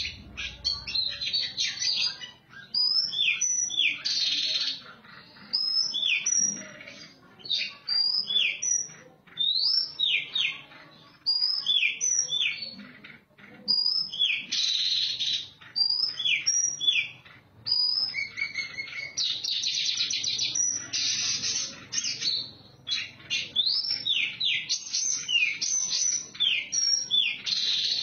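Oriental magpie-robin (kacer) singing: a long run of quick, rising whistled notes, broken now and then by short, dense rasping passages.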